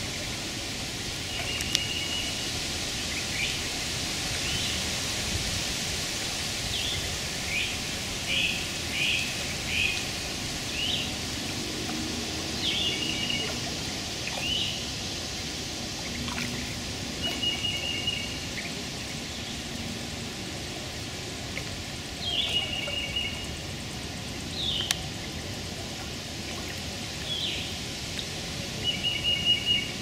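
Short, high bird calls repeated at irregular intervals, some held flat whistled notes and some quick chirps, over a steady hiss of running water.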